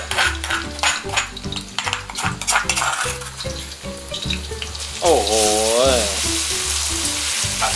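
Ingredients sizzling and frying in hot oil in a wok while being stirred, with a run of clattering stirring strokes in the first three seconds. Background music with a steady bass line and a wavering melody line about five seconds in.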